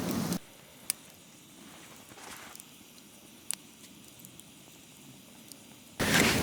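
A wood fire crackling faintly, with a few sharp pops over a quiet background. A loud, steady rushing noise cuts off just after the start and cuts back in suddenly near the end.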